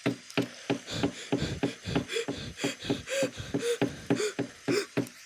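A quick, even run of short mouth sounds from a child's voice, about four a second, some with a brief rise and fall in pitch.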